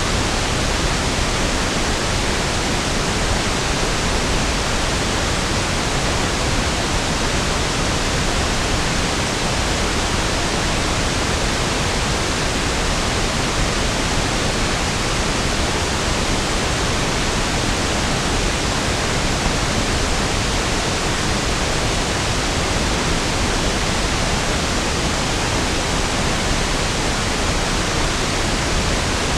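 Steady pink noise (1/f noise), an even hiss that doesn't change.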